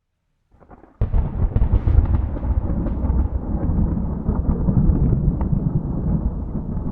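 Thunder: a moment of dead silence, then about a second in a sudden loud crack that breaks into heavy, continuous rumbling with crackles through it.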